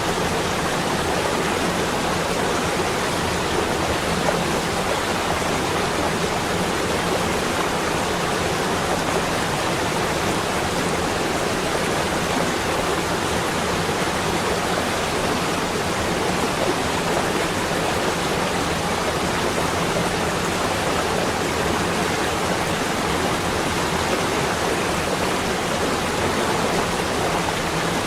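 Steady, unbroken rushing noise spread evenly from low to high, with no separate sounds in it and no change in level.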